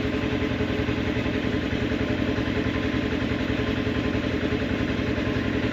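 An engine running steadily at idle, a fast, even pulsing with a constant pitch throughout.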